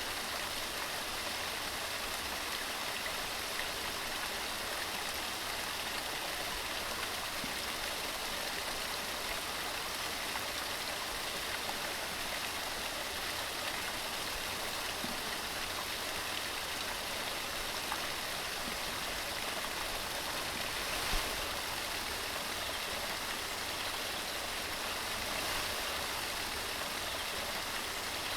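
Waterfall with a steady, even rush of water tumbling over rocks. A single brief low thump comes about three-quarters of the way through.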